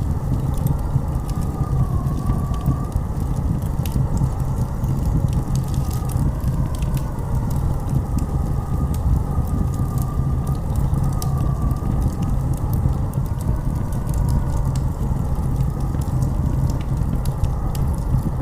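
Blizzard wind blowing hard in a steady deep roar, with a thin howl that slowly wavers in pitch, and scattered sharp crackles throughout.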